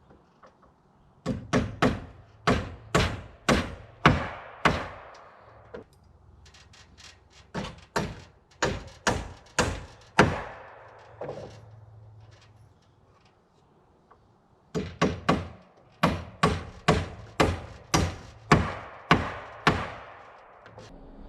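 Hammer blows on wood in three runs of quick strikes, about two a second, with short pauses between the runs.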